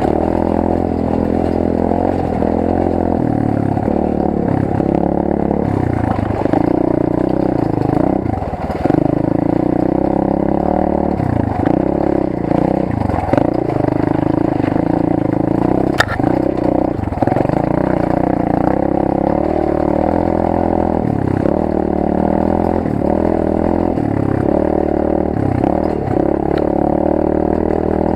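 Rampage 125 cc pit bike's single-cylinder four-stroke engine heard from onboard, revving up and falling back again and again as the throttle opens and closes over the trail. A sharp knock about halfway through.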